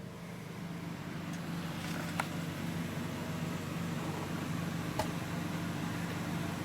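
Steady low mechanical hum of the boat's salon air-conditioning unit, growing gradually louder, with two light clicks about two and five seconds in.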